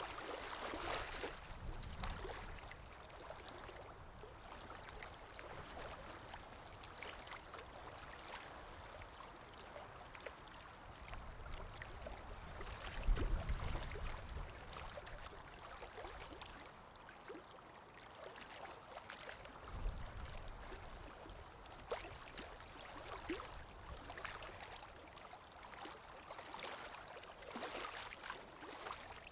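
Water moving steadily with many small splashes and drips, with low rumbles about halfway and two thirds of the way through.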